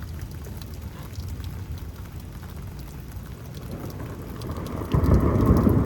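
Steady rain, then thunder breaks in loudly about five seconds in as a deep, sustained rumble.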